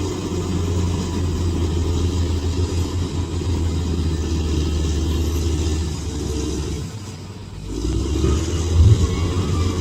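Bulldozer's diesel engine running under load with a low, steady drone; it eases off for about a second near the end, then picks back up.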